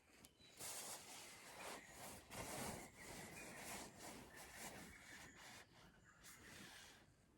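Faint, irregular rubbing and scraping sounds.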